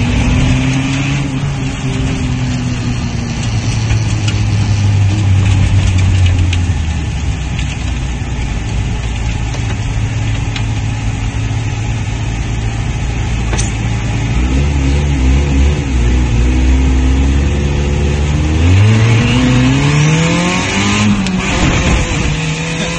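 Turbocharged 1995 Honda del Sol Si's four-cylinder engine, still without an exhaust pipe after the turbo, heard from inside the cabin while driving. Its note stays fairly steady for most of the time, then revs up sharply about 19 seconds in, eases off and climbs again at the end.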